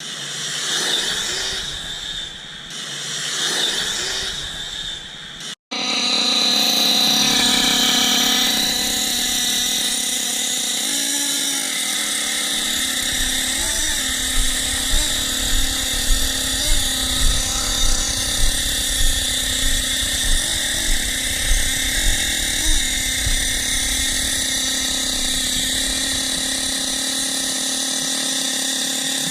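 Nitro engine of a Team Associated RC8B4.1 buggy running with a high, buzzing whine. It swells and falls twice in the first few seconds and cuts out abruptly about five and a half seconds in, then runs steadily, with a string of short regular pulses about every half second through the middle.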